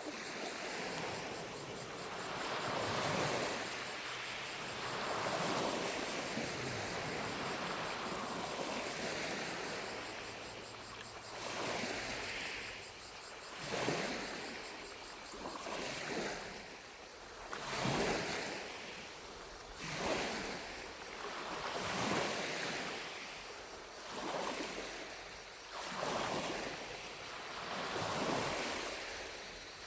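Small lake waves lapping and washing onto the shore. They form a steady wash at first, then about a third of the way in they break into separate laps roughly every two seconds. A faint, high, steady buzz of distant cicadas runs underneath.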